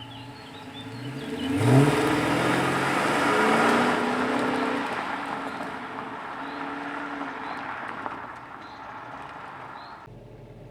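Chrysler 300C's 5.7-litre Hemi V8 exhaust: the engine is blipped up from idle with a quick rise in pitch, then runs loud at high revs and slowly dies away over several seconds, cutting off sharply near the end.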